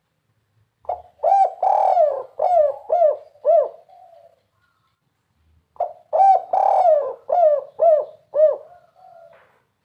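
Spotted dove singing its 'kuk 3' song twice, about five seconds apart. Each phrase is a short note, then a long coo, then three quick curving coos and a faint trailing note.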